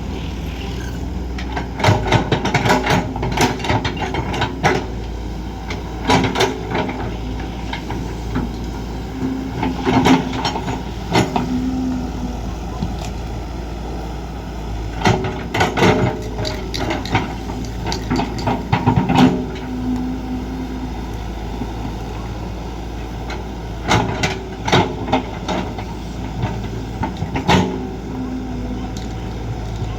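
Kobelco SK200 excavator's diesel engine running steadily, with repeated bursts of knocks and clanks every few seconds from the digging work.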